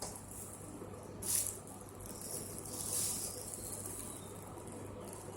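DAIKIO evaporative air cooler's fan running: a steady low hum with an airy hiss that swells briefly a little over a second in and again around three seconds in.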